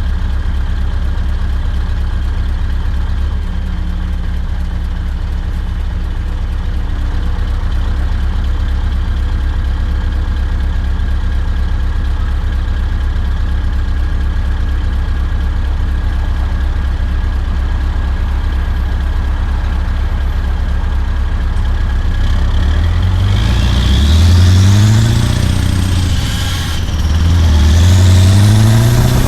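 Scania R580's straight-piped 16-litre V8 diesel running steadily at low revs, then near the end revving up, dropping briefly for a gear change, and climbing again as the truck accelerates.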